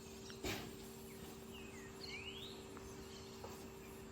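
Faint bird chirps, a few short calls including a quick rising whistle about two seconds in, over a steady low hum, with a soft knock about half a second in.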